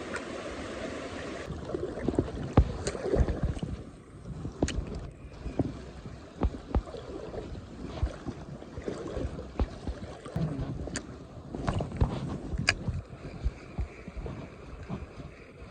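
Wading through a shallow stream in PVC waders: irregular knocks and scuffs of steps on stones and water sloshing around the legs. The steady rush of the stream is heard for the first second and a half, then drops away under the footsteps.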